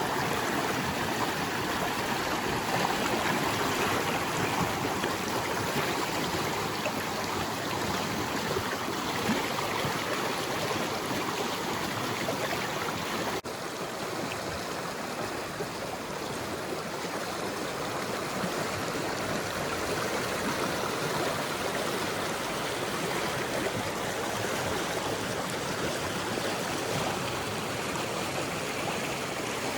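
Shallow creek water rushing and gurgling steadily over rocks. About halfway through, the level drops slightly and abruptly, then the flow carries on the same.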